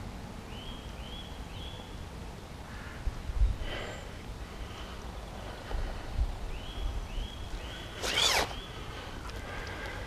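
A bird repeats a short call in runs of three or four, twice. Low thumps from the fish being handled come in between, and a loud breathy sound comes about eight seconds in.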